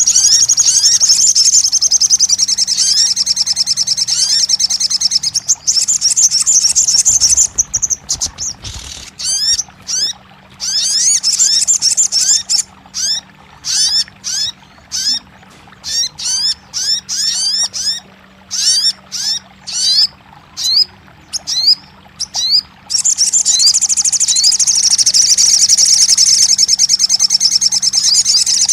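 Bird song played for bird-keeping 'therapy': fast strings of high, rising chirps, in long unbroken bursts at the start and near the end, with short separate phrases in between. A faint steady hum lies beneath.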